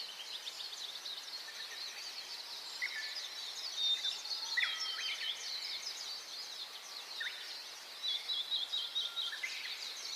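Many small birds chirping together in a dense, continuous chorus of high chirps, with a few louder separate calls standing out now and then.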